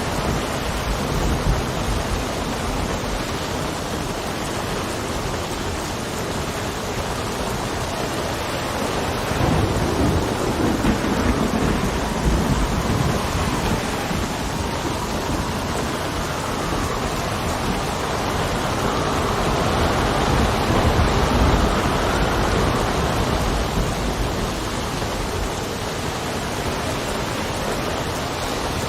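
Steady heavy rain under a constant wash of noise, with wind gusting. A low rumble swells about ten seconds in, and a gust rises and falls around the twenty-second mark.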